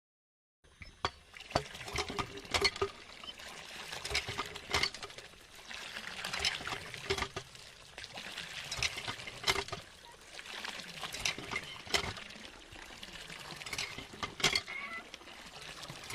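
Water pouring and trickling, with many small splashes and clicks, swelling and easing every couple of seconds.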